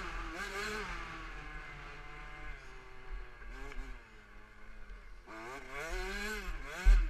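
KTM 65 SX's small two-stroke single-cylinder engine revving up and down, easing off in the middle and climbing again twice near the end. A heavy low thump comes just before the end.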